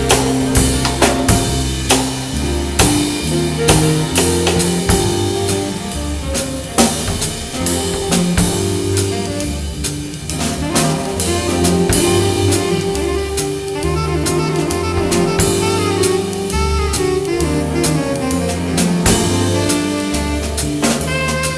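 Jazz with drum kit and saxophone: a steady swing beat under a walking bass line and held horn notes.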